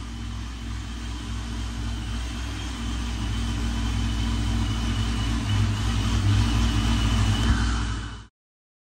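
ProCharger-supercharged Pontiac G8 GT's V8 idling steadily on a chassis dyno: a low, even rumble with a thin steady high whine above it, growing gradually louder before cutting off abruptly near the end.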